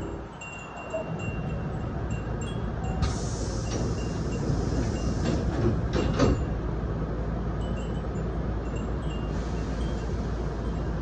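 Wind chimes (furin) hung inside a Nose Electric Railway 7200 series train car, tinkling now and then over the steady rumble of the moving train. About three seconds in, a louder hiss rises for a few seconds, with several sharp clacks near its end.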